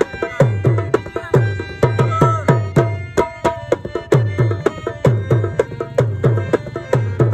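Instrumental rabab music: plucked rabab strings over a fast hand-drum rhythm, with deep drum strokes that slide down in pitch several times a second.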